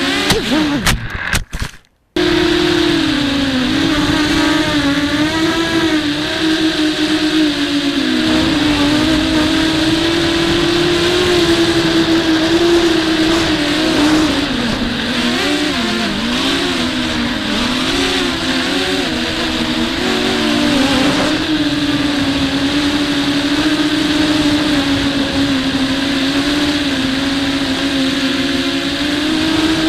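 Brushless motors and propellers of a WarpQuad 200 FPV quadcopter (1306 2300kV motors, 5030 props) whining in flight, recorded on board. The pitch wavers up and down with throttle, and there is wind buffeting underneath. About one to two seconds in come a few sharp clicks and a brief cut to silence before the motor whine returns.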